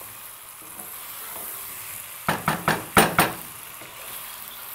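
Chicken and chopped tomatoes sizzling in a pot while being stirred with a wooden spatula. A little past two seconds in comes a quick run of about five knocks of the spatula against the pot.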